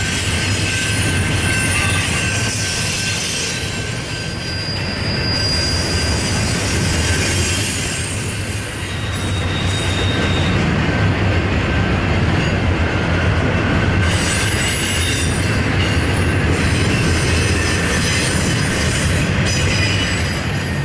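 Freight train rolling past downgrade: a steady heavy rumble of steel wheels on rail, with thin, high-pitched wheel squeals drawn out over it.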